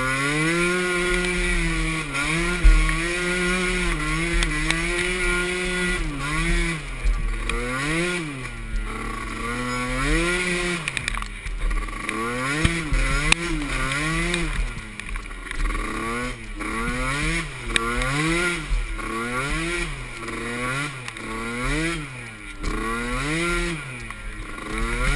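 Small youth ATV engine racing, held steady at first, then revving up and down over and over, about once a second in the second half as the throttle is worked through the course.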